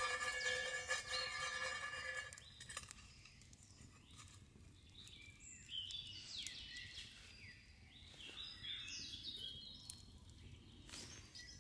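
Woodland birds singing: a scatter of short chirps and quick whistled glides. Steady held tones sound in the first two seconds and stop about two seconds in.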